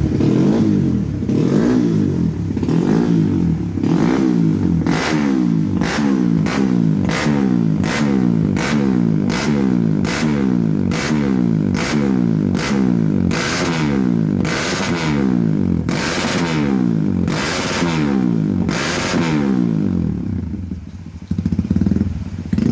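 Kawasaki KLX150's single-cylinder four-stroke engine revved in repeated throttle blips, the pitch rising and falling about once or twice a second, with a sharp crackle at many of the peaks. The revving eases off near the end.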